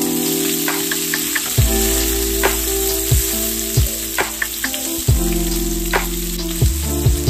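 Red bell pepper strips sizzling in hot oil in a non-stick wok, with a steady hiss. A wooden spatula stirs them, knocking and scraping against the pan in irregular ticks. Background music with sustained chords plays underneath.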